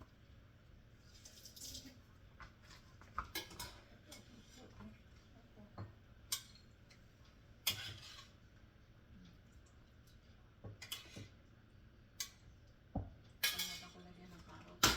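Kitchen clatter: dishes and utensils knocking and clinking now and then, a string of separate short clinks with the loudest one near the end.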